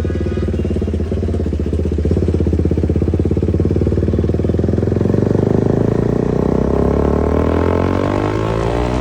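KTM motorcycle with an aftermarket exhaust running under way; its pulsing engine note holds steady, then rises in pitch as it accelerates over the last couple of seconds.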